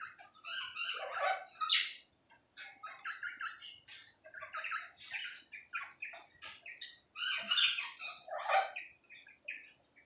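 Caged birds chattering in quick runs of short squawks and chirps, busiest about a second in and again around seven to eight seconds.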